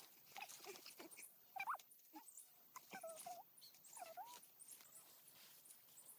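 Faint, short whining animal cries, half a dozen in a row, each one a brief bending note, the loudest about a second and a half in.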